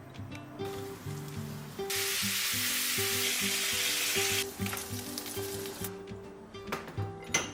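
Food sizzling in a hot frying pan: a loud, steady frying hiss starts about two seconds in and stops after about two and a half seconds, with fainter sizzling and a few light clinks around it. Background music plays throughout.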